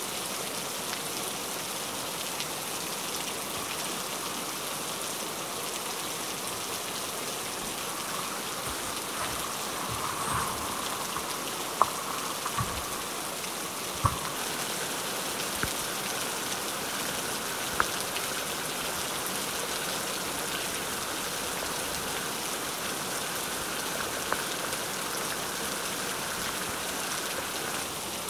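Steady rain falling, with a few sharp clicks or knocks scattered through it.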